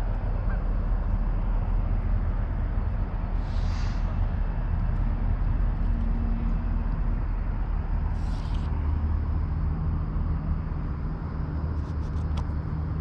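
River water rushing steadily, with a deep rumble under it, and two brief hissing swishes about four and eight seconds in.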